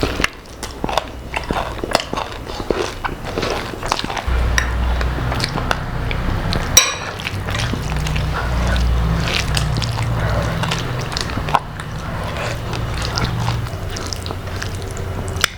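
A person eating close to the microphone: biting and chewing food with many short crackly clicks, one sharper click about halfway through. A low rumble runs underneath from about four seconds in until near the end.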